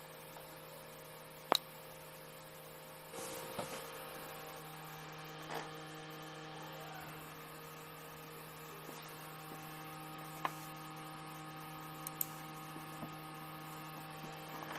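Steady low electrical hum with a faint hiss, broken by a couple of single sharp clicks.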